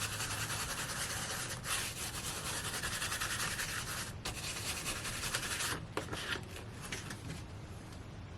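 Paint being scrubbed onto paper in rapid rubbing strokes, with a few brief pauses, growing softer in the last couple of seconds.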